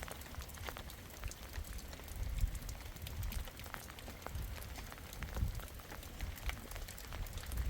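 Rain falling, with many scattered drops ticking on a surface, over a steady hiss. Under it runs an uneven low rumble that swells twice.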